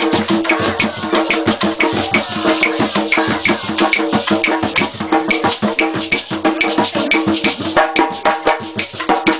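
Live traditional Creole folk music: hand drums and a shaker keep a fast, even beat, with bright ticks about four times a second over a few held lower tones.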